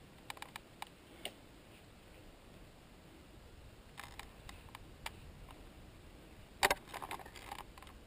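Mountain bike rattling and clicking over rough trail: scattered sharp clicks, a few early, a group about four seconds in, and the loudest cluster about two-thirds of the way through.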